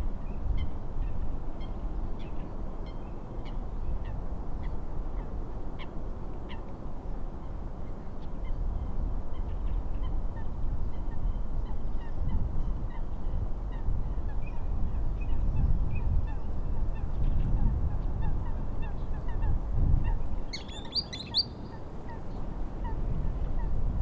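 Wind and lake waves in a steady, gusting low rumble, with small birds chirping faintly throughout. About twenty seconds in, a louder bird call lasts about a second.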